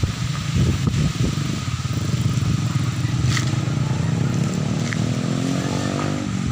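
Strong wind gusting and buffeting the microphone. From about halfway through, an engine rises slowly in pitch as it comes closer. A couple of faint clicks sound above it.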